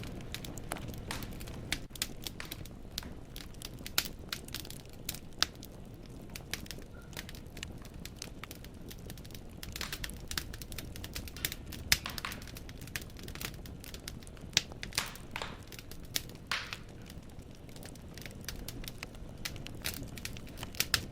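Wood fire in a fireplace crackling, with irregular sharp pops and snaps from the burning logs over a low steady rumble of the flames.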